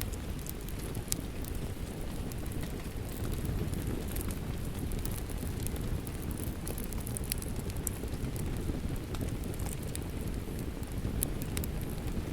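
Fireplace-and-rain ambience: steady rain with a wood fire burning, a dense low hiss and rumble that holds steady, scattered with many irregular sharp crackling clicks.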